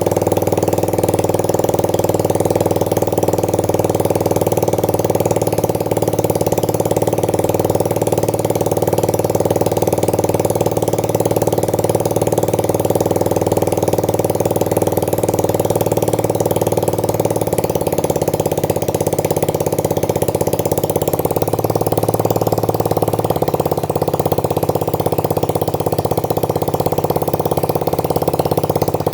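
Alpha 110 cc moped engine idling steadily with no fuel tank fitted, running only on the petrol left in the carburettor bowl. Its note shifts slightly about two-thirds of the way through.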